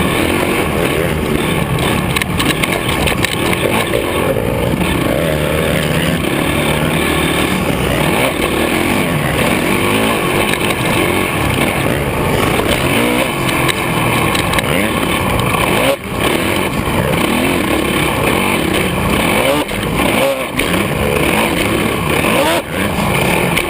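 Motocross dirt bike engines racing, revving up and down continuously as the throttle is worked around the track. A few brief dips in the noise come about two-thirds of the way in and near the end.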